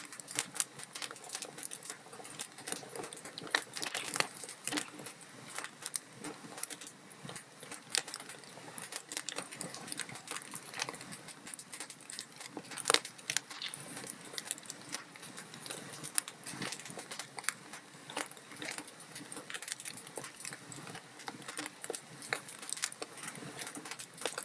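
Wood fire in a fireplace crackling and popping: a steady run of sharp snaps over a soft hiss of burning logs, with a few louder pops, the loudest about thirteen seconds in.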